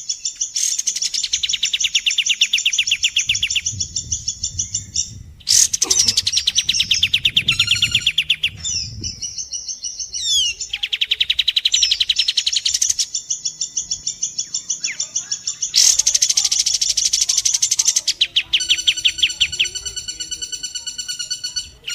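Bird-song masteran mixing kapas tembak and woodpecker calls: long bursts of very fast, dense rattling trills, each lasting a few seconds with brief breaks between them. Short gliding whistles come in between the bursts, and a buzzier trill plays near the end.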